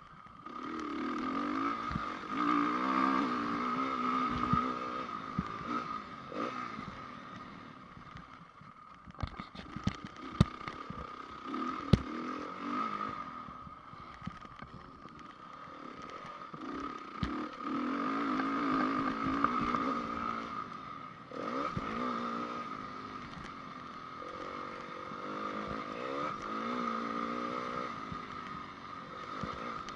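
Honda CRF450 four-stroke single-cylinder motocross engine, heard from the bike as it is ridden round a track, revving up and dropping off again in repeated surges through the corners and straights. A steady high whine runs underneath, and a few sharp knocks come about ten and twelve seconds in.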